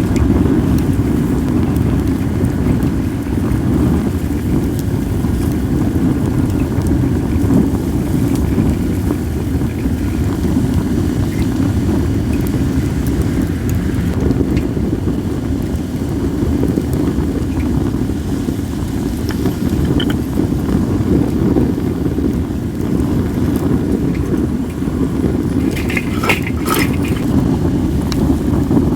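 Acacia and mixed firewood burning in an open fire pit, with sparse faint crackles and a short burst of sharp pops near the end. Wind rumbles steadily on the microphone throughout and is the loudest sound.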